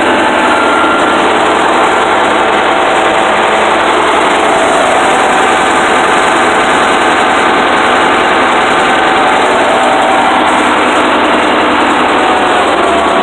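Diesel engine of a 1974 International Harvester track loader running steadily with the hand throttle set high, just after a cold start.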